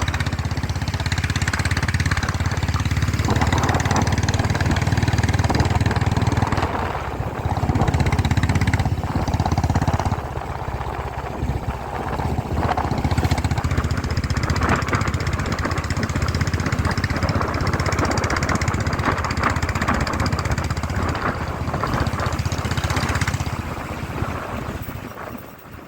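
Motorcycle engine running steadily while riding, with a rushing noise over it; the sound eases off near the end.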